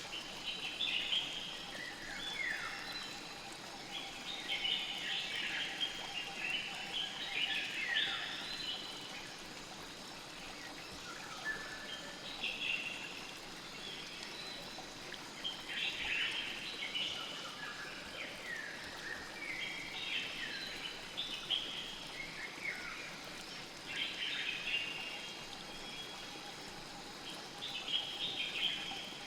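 Small birds chirping in clusters of short, falling calls every second or two, over a steady wash of flowing river water.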